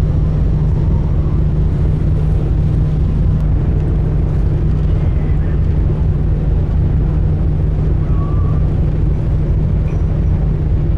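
Sightseeing boat's engine running steadily, a loud, even low drone with a steady hum, heard from aboard.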